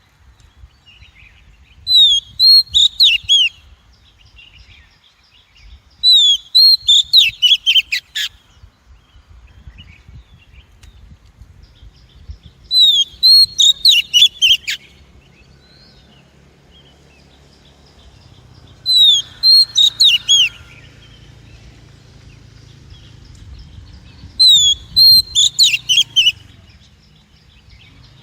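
Female Oriental magpie-robin calling in five short bursts of quick, curving whistled notes, several seconds apart. It is a lure call used to draw in wild magpie-robins.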